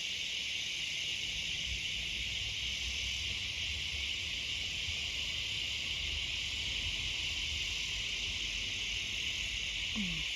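Cicadas chorusing in a steady, unbroken high-pitched drone.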